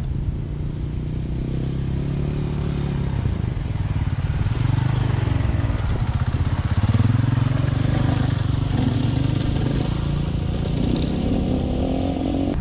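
A vehicle engine running at low speed, its pitch climbing somewhat over the second half.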